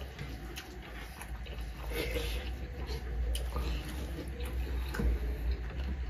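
Close-miked chewing sounds of two people eating rice and curry by hand, with scattered small clicks and taps, over a steady low hum.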